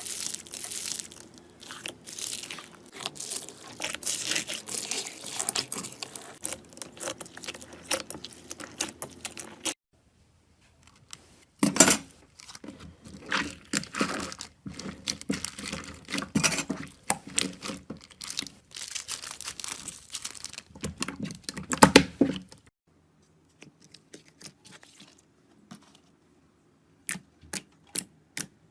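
Slime being squeezed, pressed and stretched by hand: wet, crinkly squishing with many small crackling clicks and pops. It comes in separate stretches with a short silent gap about ten seconds in, and a few sharp snaps near the end.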